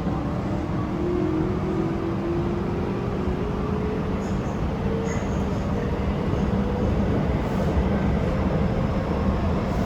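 Chiba New Town Railway 9100-series electric train heard from inside the car, its Toyo GTO-thyristor VVVF inverter drive whining in tones that rise slowly in pitch as the train accelerates. The whine sits over a steady rumble of wheels on rail.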